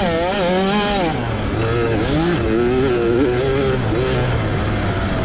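65cc two-stroke motocross bike engine under racing throttle. The revs climb through the first second, drop sharply, then run lower and uneven with small blips.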